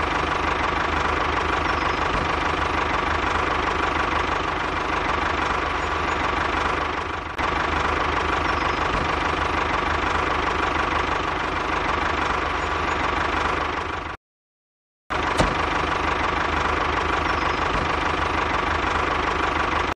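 Small engine running steadily at an even speed, with a brief cut to silence about 14 seconds in.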